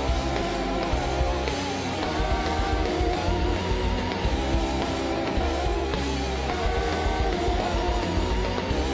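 Live hard rock band playing at full volume: distorted electric guitars over a heavy, continuous bass, with wavering, bending guitar lines.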